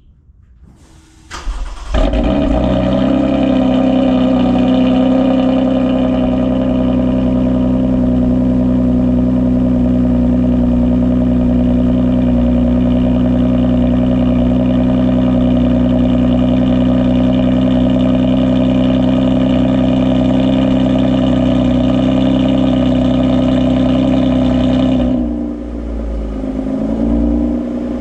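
2021 Toyota Avalon TRD's 3.5-litre V6 cold-starting through an exhaust with the resonator and secondary catalytic converter deleted: a brief crank about a second in, the engine catches loudly, then holds a steady fast cold idle. Near the end the idle drops lower and wavers briefly before settling.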